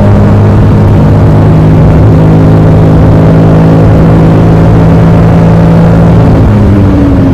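Honda N-ONE's three-cylinder kei-car engine running steadily, its pitch shifting slightly about a second in and again near the end. The air conditioner is on, so the engine is under extra load and working hard.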